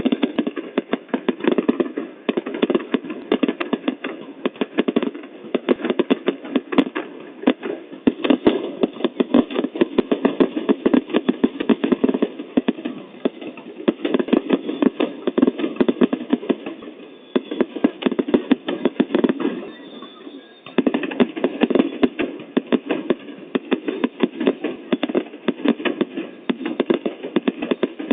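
Fireworks going off in a rapid, continuous crackle of many small bangs a second, easing briefly about twenty seconds in.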